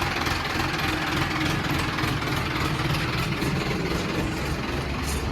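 Mahindra Arjun tractor's diesel engine idling steadily.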